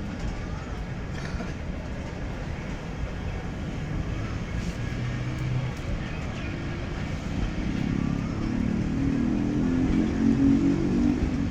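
Fareed Express passenger train departing, running past with a steady low rumble on the track that grows louder about two-thirds of the way through.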